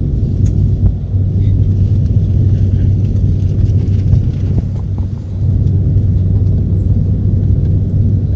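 Steady low rumble of a jet airliner's engines and airflow heard from inside the passenger cabin, dipping briefly about five seconds in.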